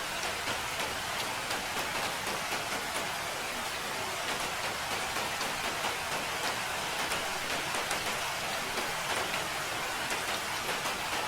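Steady rain falling: an even hiss with scattered sharper ticks of single drops striking.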